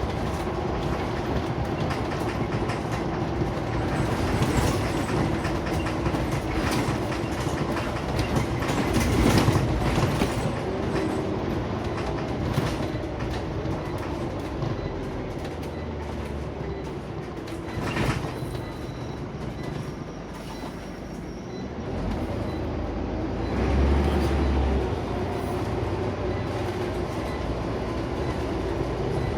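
Interior of a Scania Omnicity single-deck bus under way: the engine running steadily, with road noise and constant rattling from the body and fittings. It quietens for a few seconds about two-thirds through, then picks up again with low thumps.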